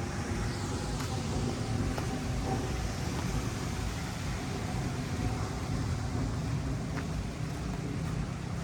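Steady low rumble of wind buffeting the microphone over surf and rain on a beach, with a faint steady hum in the background.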